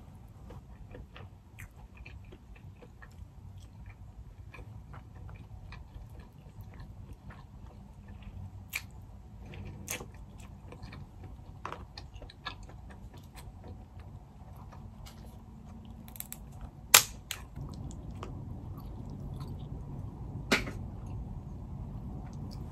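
Close-up chewing and mouth clicks of someone eating king crab, with scattered sharp clicks and snaps of crab legs being handled and picked apart by hand; one snap about three-quarters of the way through is much louder than the rest.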